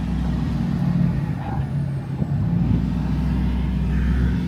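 Truck engine running, a steady low drone with a brief dip about two seconds in.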